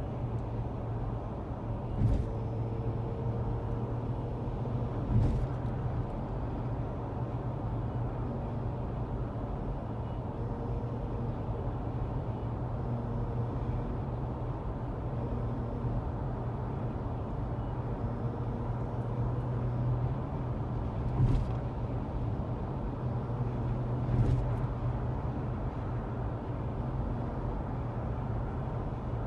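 2013 Tesla Model S P85 on the move: a steady low drone from the road and rear drive unit, with a faint whine that comes and goes and a few sharp knocks. The owner's weird rear-motor noise shows up only under acceleration or when the pedal is released.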